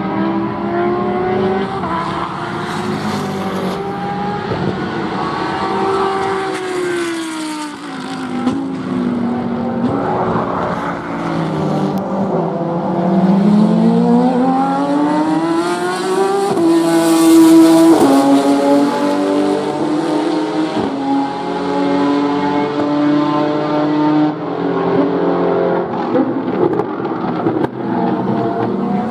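Racing car engines on a circuit at speed, more than one car heard at once. Partway through one engine's pitch falls as it slows, then an engine climbs steeply through the revs and is loudest just after the middle, before several run on together at steady revs.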